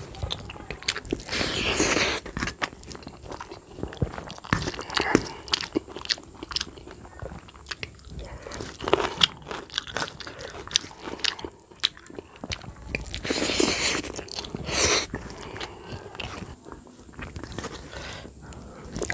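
Close-miked chewing and wet mouth sounds of a man eating rice mixed with jackfruit curry by hand, with many small clicks and smacks and a few louder stretches, amid fingers working rice on a steel plate.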